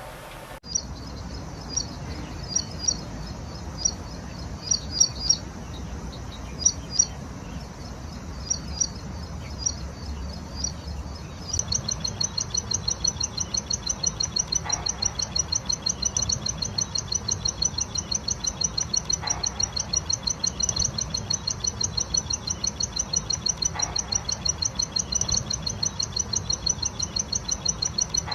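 A prinia (ciblek) singing. It gives scattered clusters of high, sharp chirps, then from about 11 seconds in a steady, fast run of repeated high notes, several a second, over a low background rumble.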